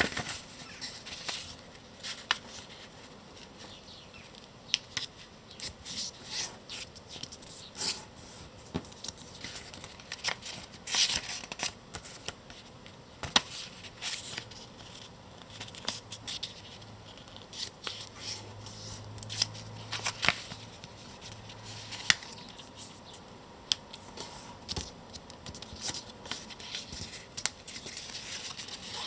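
A sheet of paper handled and folded by hand: irregular rustling with sharp, crisp crackles as folds are pressed in.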